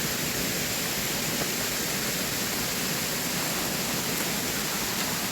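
Waterfall cascading: a steady rush of falling water.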